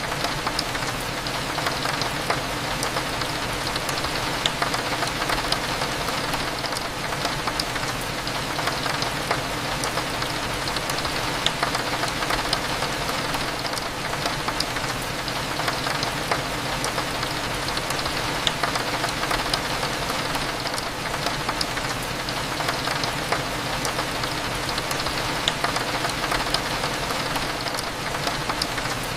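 Steady rain with many small raindrop ticks against a window glass, over a low, continuous cafe hum.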